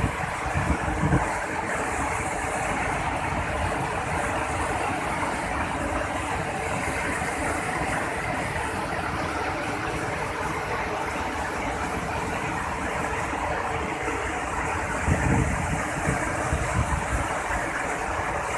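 Waterfall in rainy-season flow, a steady rush of falling water, with wind buffeting the microphone around the start and again near the end.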